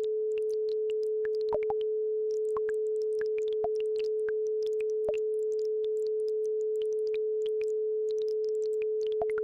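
A steady pure tone at 432 Hz, the base frequency of an isochronic-tone track, held without change. Behind it are faint, scattered drips and trickles of a babbling brook.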